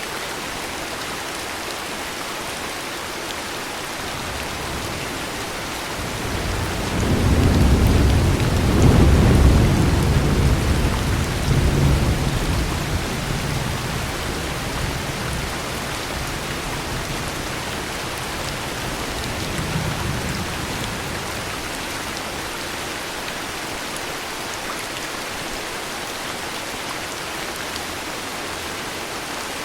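Steady heavy rain with rolling thunder. A long deep rumble builds about a fifth of the way in and dies away over several seconds, and a fainter rumble follows near two-thirds of the way through.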